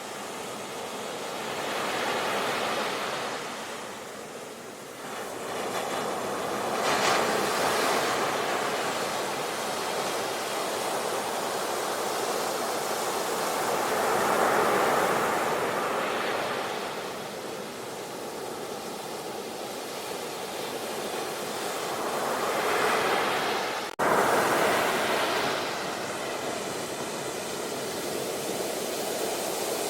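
Ocean surf: waves breaking and washing in, the rushing sound swelling and ebbing every few seconds. About 24 seconds in, the sound cuts off abruptly and comes straight back.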